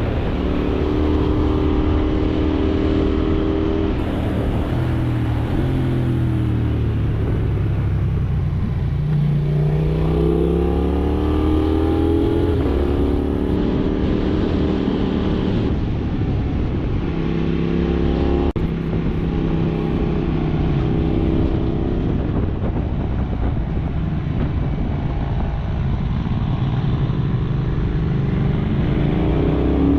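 KTM 790 Duke's parallel-twin engine heard from the rider's seat while riding. The revs climb and drop several times through acceleration, gear changes and engine braking.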